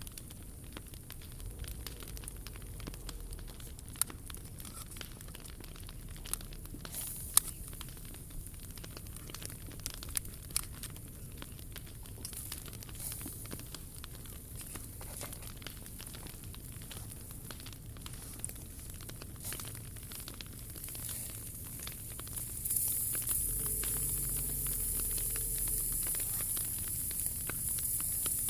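Wood fire burning, crackling with scattered sharp pops. About 22 seconds in, a steady hiss gets louder.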